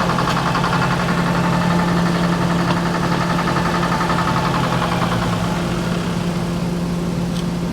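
An engine running steadily at idle, with a higher whine over it that fades out about five seconds in.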